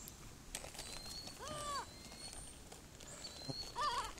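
Faint short bird calls, each rising and then falling in pitch: one about a second and a half in and another near the end.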